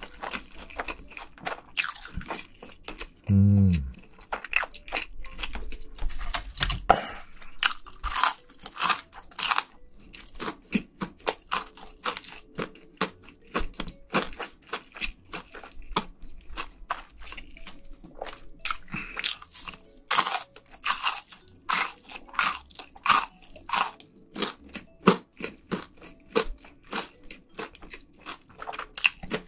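A person chewing food close to the microphones: a dense, irregular run of crunchy, wet mouth clicks and crackles. A short, low hummed 'mm' sounds about three and a half seconds in and is the loudest moment.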